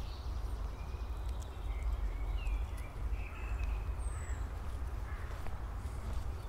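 Birds chirping in short calls over a steady low rumble.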